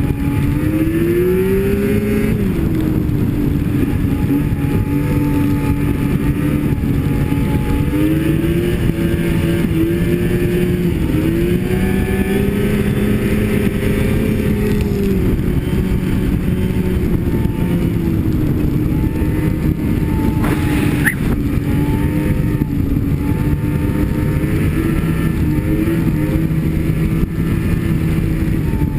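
Snowmobile engine running under way, its pitch rising and falling as the throttle is eased and opened, over a steady rush of noise. A short click about twenty-one seconds in.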